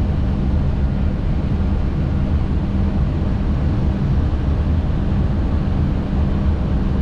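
Steady cockpit noise of an Airbus A320 on short final approach: airflow and engine rumble with a constant low hum.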